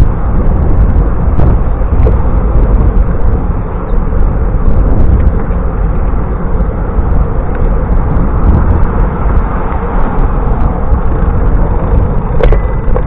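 Loud, steady wind rumble on a bicycle-mounted or rider-worn camera's microphone during the ride, with a few faint clicks and one sharper click near the end.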